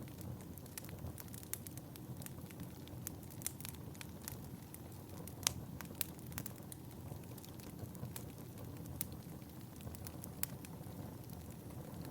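Wood fire in a fireplace crackling: a steady low rush of burning under frequent, irregular sharp pops, the loudest about five and a half seconds in.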